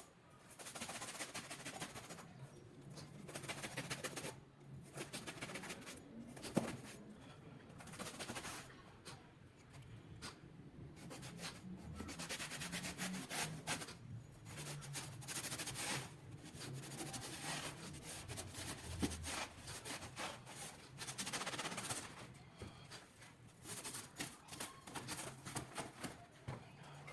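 Rubbing and scraping strokes on a material, in stretches of a few seconds with short pauses, and a sharp click about six and a half seconds in.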